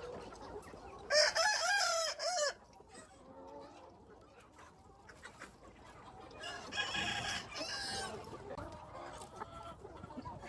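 A rooster crows loudly for about a second and a half, starting about a second in. Chickens call again more quietly a few seconds later.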